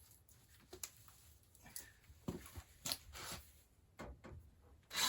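Scattered light clicks and knocks of tools and parts being handled, then a power drill starts right at the end.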